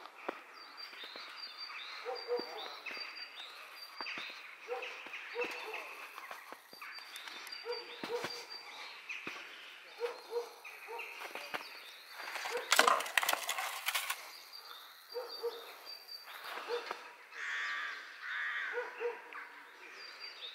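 Birds calling outdoors: many short repeated calls and rows of thin high chirps. A louder burst of rustling noise comes about two-thirds of the way through.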